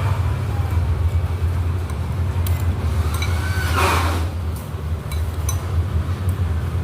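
Steady low rumble of street traffic, with a vehicle passing about four seconds in.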